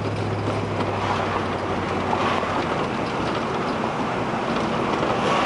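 Car driving along a city street, heard from inside the cabin: steady road and engine noise. A low engine hum drops away about two seconds in.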